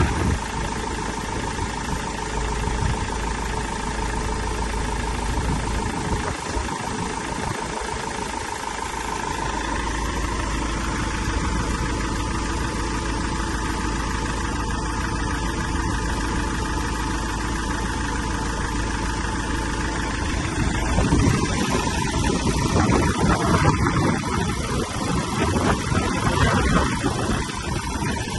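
Iveco engine idling steadily. About twenty seconds in, it becomes louder and more uneven.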